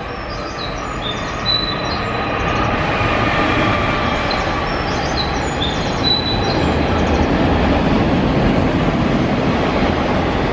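Freight train passing close by: the rumble of the locomotive and wagons grows louder over the first few seconds, then holds steady as the wagons roll past, with brief high squeaks over the first half.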